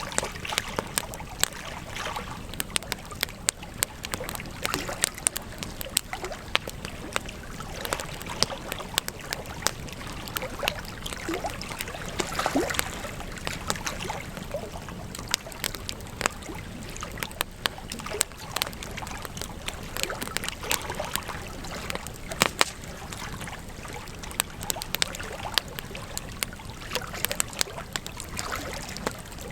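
Campfire crackling, with many sharp pops and snaps of burning wood over a steady low hiss.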